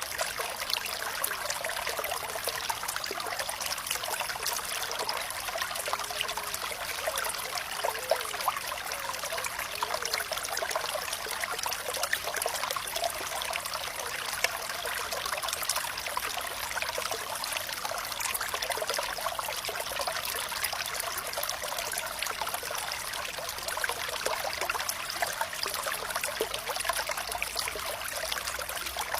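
Flowing water trickling and splashing steadily, with a few small gurgles, like a small stream running over stones.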